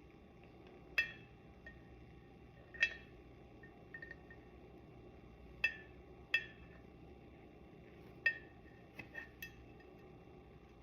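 A cockatoo's beak clinking against a drinking glass of water: a handful of sharp, irregular clinks with a short ring, a few fainter taps near the end.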